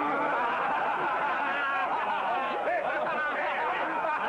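A crowd of many voices at once, overlapping shouts, chatter and laughter with no single speaker standing out.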